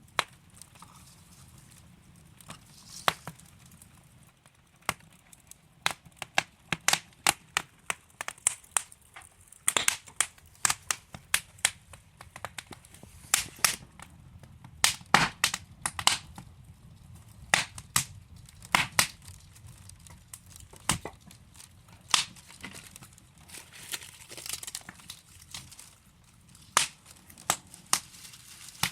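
Wood fire burning in a fireplace: logs crackling with irregular sharp pops and snaps over a soft low hiss, the pops coming in quick clusters through the middle.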